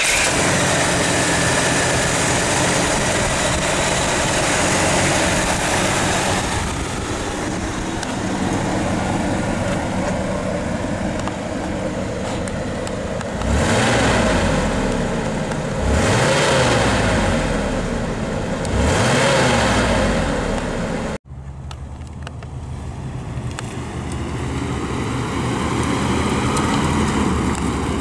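1976 Oldsmobile Starfire's 231 cubic inch V6 running at idle, then revved three times, each rev rising and falling back. After a break about three-quarters of the way in, the engine runs steadily and climbs slowly as the car drives off.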